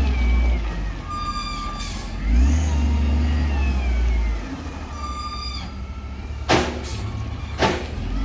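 Heavy diesel engine of a wheel loader running and revving up twice, with a short high pitched tone sounding twice and two sharp clanks or hisses near the end.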